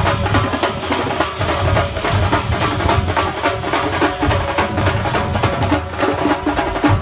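Thambolam melam band playing: fast, dense drumming with deep bass-drum strokes under steady held notes.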